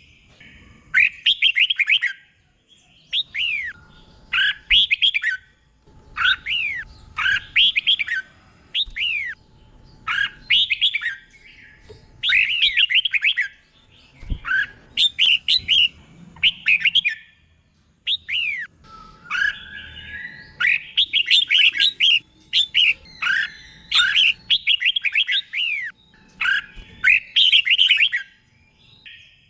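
Red-whiskered bulbul singing tutor song: short, rapid phrases of quick falling whistled notes, repeated one after another with brief pauses between them.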